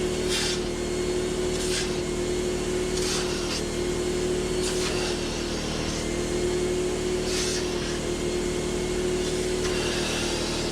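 Electric vacuum-type motor running steadily with a constant whine, with short hissing strokes every second or two as the nozzle works the upholstery.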